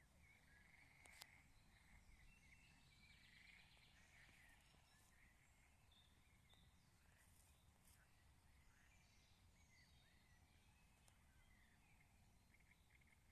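Faint birdsong: several small birds chirping and trilling over a low rumble, with one sharp click about a second in.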